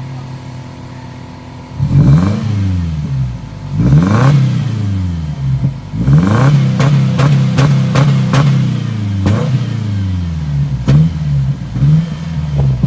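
2013 Subaru Impreza's flat-four engine running with the muffler removed: idling steadily, then revved in blips that rise and fall, two single ones followed by a run of quicker blips from about six seconds in.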